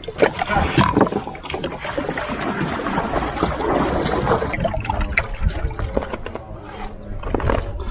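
Plastic kayak being steadied and climbed out of at the water's edge: repeated knocks and bumps on the hull with water sloshing and trickling. A high hiss in the mix cuts off about four and a half seconds in.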